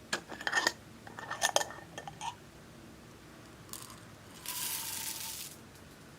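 Clear slime being worked by hand, with quick clusters of sharp clicks and crackles in the first couple of seconds, then a short hissing squelch about a second long.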